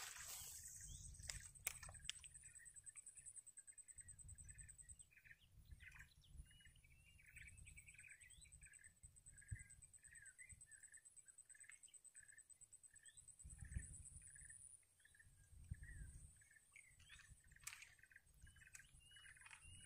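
Faint swamp ambience: small birds chirping in quick, short calls throughout, over a high continuous trill and a low rumble that swells and fades.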